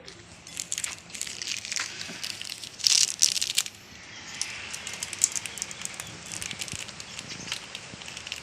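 Light rain pattering: a dense crackle of small drops, louder for a moment about three seconds in, then settling into a steady patter.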